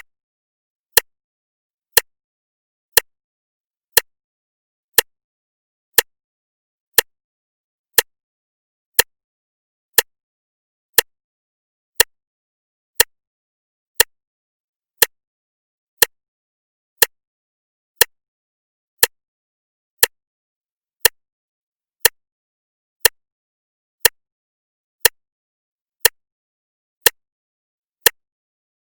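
Clock ticking once a second: sharp, evenly spaced ticks that all sound alike, with silence between them.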